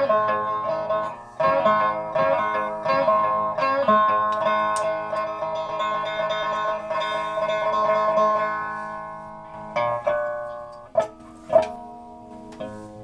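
Music played on a plucked string instrument: a run of plucked notes that ring on, dying away over a couple of seconds, followed by a few sparse single plucks.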